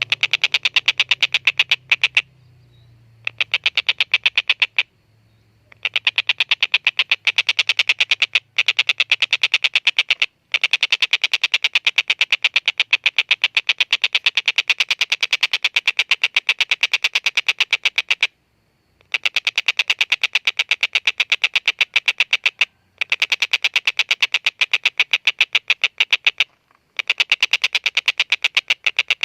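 Collared kingfisher (tengkek buto) calling: long bouts of rapid, harsh 'kek-kek-kek' notes, several a second, with brief pauses between bouts.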